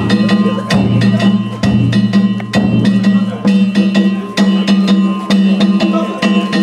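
Danjiri festival music (narimono): a taiko drum and kane gongs beaten in a steady rhythm, a main stroke about once a second with lighter strokes between, the gongs ringing on over a low steady drone.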